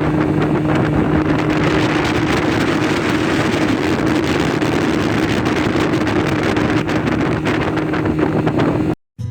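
Motorboat engine running steadily at speed, a constant hum under heavy wind on the microphone; it cuts off abruptly near the end.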